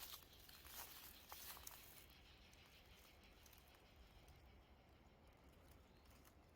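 A few faint crunching footsteps on dry pine straw and leaves in the first two seconds, then near silence as the walker stops.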